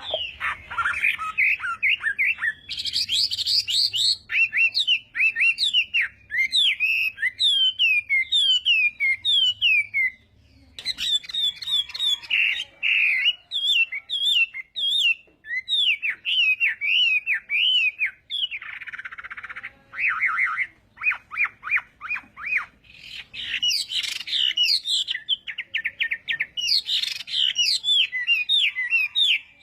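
Chinese hwamei singing a long, varied song: fast runs of repeated downslurred whistles and trills mixed with harsh, raspy notes, with a brief pause about ten seconds in.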